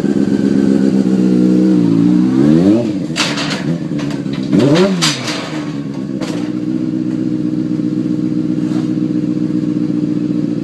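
Motorcycle engine running and being revved: the pitch rises and falls twice, about two and a half and five seconds in, with a few sharp knocks and clatter in between. It then settles into a steady idle.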